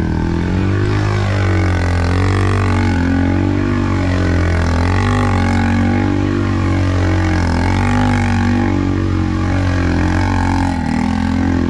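ATV engine running steadily under way, its pitch rising and falling a little every second or so as the throttle varies.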